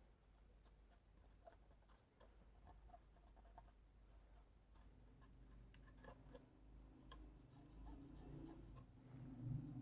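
Faint scratching and rubbing as the circuit board around a TV panel's DC-to-DC IC is cleaned of carbon, with scattered small clicks. A low hum comes in about halfway through.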